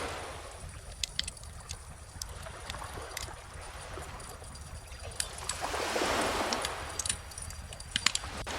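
Wood bonfire crackling with scattered sharp pops, over calm ocean waves washing on the shore; one wave swells and falls away about six seconds in.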